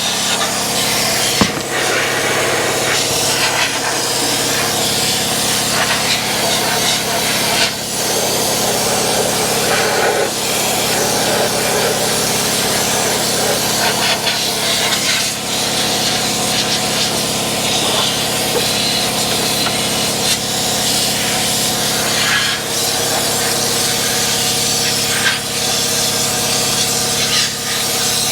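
Air-powered undercoating gun spraying oil in a continuous loud hiss, dipping briefly a few times, over a steady hum.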